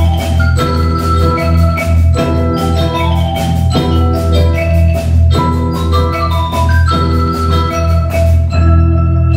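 Youth percussion ensemble playing tuned mallet percussion: quick runs of struck, ringing notes over a steady low sustained note, with some drums.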